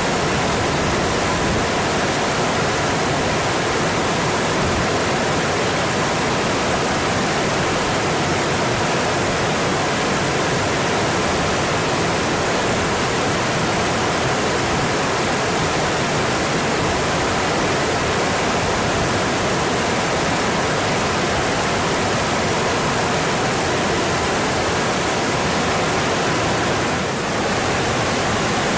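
Mountain stream running, a steady, full rush of water that briefly softens a little near the end.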